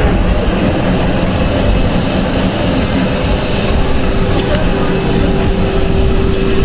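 Loud, steady roar of airliner engines, with a strong high hiss over the first few seconds and a steady hum coming in about five seconds in.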